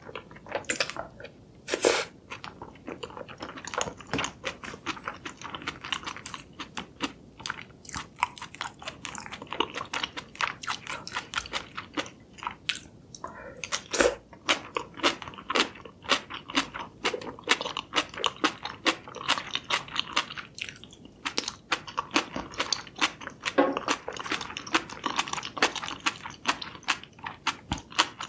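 Close-miked chewing of a mouthful of jjajangmyeon (thick black bean noodles in sauce): rapid, irregular wet clicks and crunchy mouth sounds, several a second, with a louder bite or slurp about two seconds in.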